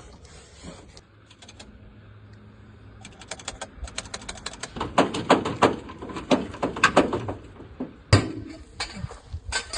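A quiet stretch with a faint low hum, then, from about three seconds in, a long run of irregular sharp clicks and light knocks, like tools and parts being handled during a repair.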